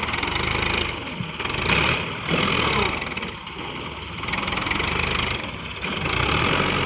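Diesel tractor engine labouring to pull a heavily loaded trolley, its sound swelling and easing several times with a brief change in pitch about two seconds in.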